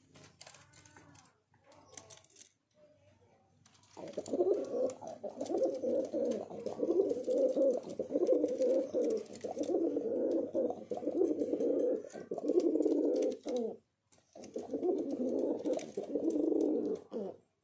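Domestic pigeon cooing close to the microphone in long runs of low coos. The cooing starts about four seconds in, breaks off for a moment near fourteen seconds, then starts again.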